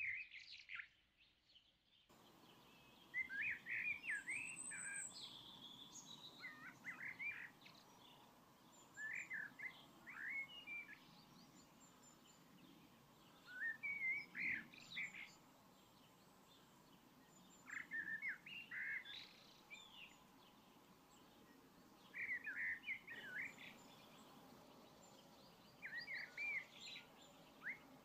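A songbird singing short, quick warbling phrases every few seconds over faint steady outdoor background noise, which comes in about two seconds in.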